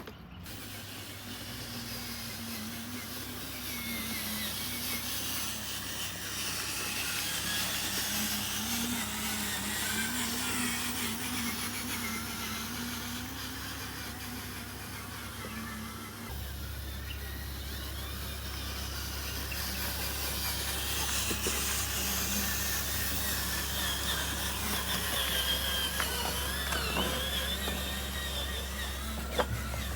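Small electric motors of radio-controlled construction models running, with a whine that wavers up and down in pitch as they work. A low steady hum comes in strongly about halfway through, and there are a couple of sharp clicks near the end.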